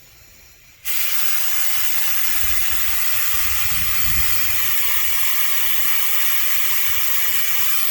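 Air-powered venturi vacuum brake bleeder switched on about a second in: a loud, steady hiss of compressed air rushing through it as it draws vacuum on the brake bleeder valve.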